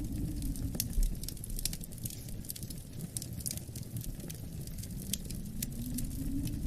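Wood fire crackling with scattered sharp pops, over a low wind rumble that dips in the middle and swells again near the end. A soft low thump comes about a second in.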